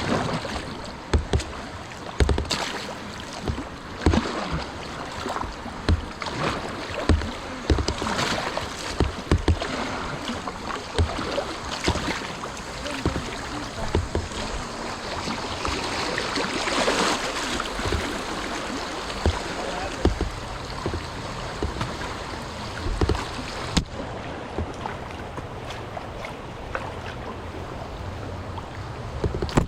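Rushing whitewater river with irregular sharp splashes and knocks from a kayak paddle striking the water.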